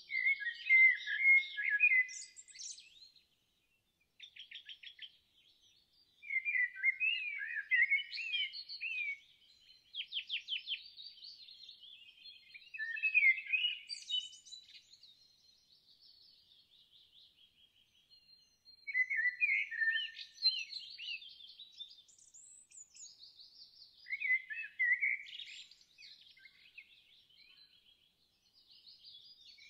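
Songbirds singing: short phrases of quick chirps and rapid trills every few seconds, with brief pauses between phrases.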